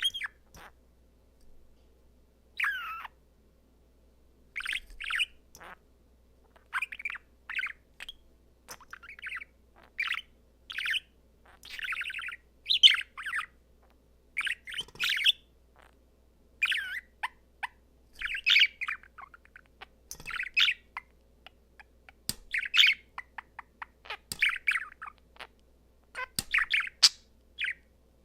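A male budgerigar warbling and chattering in short, chirpy phrases with quick up-and-down pitch sweeps, one burst every second or so with brief pauses between, the song of a contented budgie.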